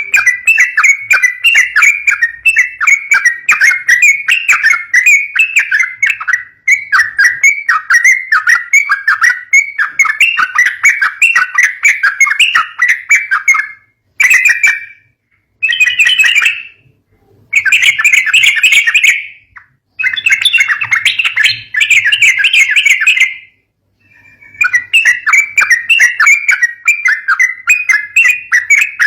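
Yellow-vented bulbul (trucukan) calling in long runs of rapid chattering notes, broken by a few short pauses midway.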